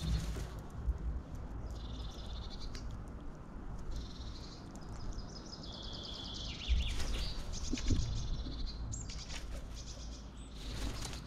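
Small birds chirping and trilling in several bursts over a steady low rumble, with a couple of brief lower calls about eight seconds in.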